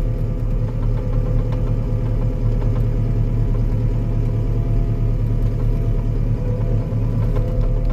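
Diesel engine of a compact construction machine running steadily with a low, even hum.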